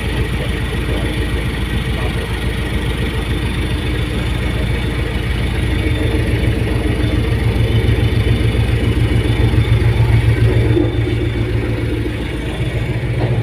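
A fast ferry's engines running with a steady low drone. It grows louder toward about ten seconds in, eases off briefly just after, then picks up again near the end.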